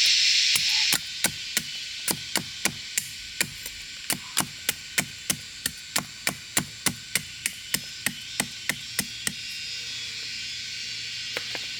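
Repeated chopping strikes on wood, about three to four a second, in a steady run that stops about nine seconds in, over a steady high hiss.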